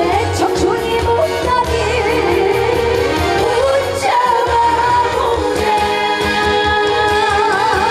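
A woman singing a trot song live over band accompaniment, holding long notes with wide vibrato.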